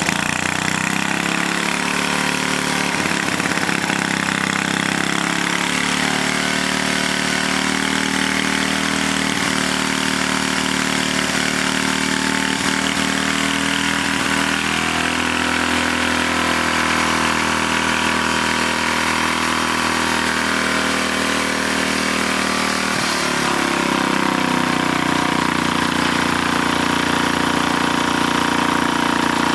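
1949 Briggs & Stratton WI half-horsepower single-cylinder engine running steadily on its own, first start after decades of sitting. About 23 seconds in its note shifts and it gets slightly louder.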